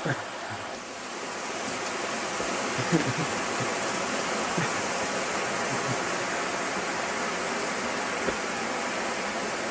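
Steady rushing of fast-flowing river water, growing a little louder after about a second, with a few faint knocks.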